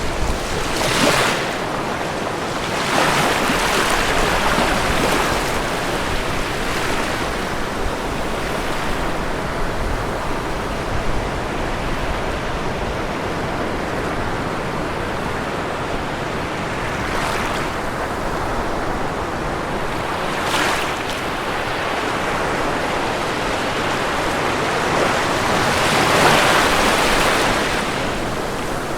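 Ocean surf: a steady rushing wash of water with waves breaking every few seconds, the loudest break near the end.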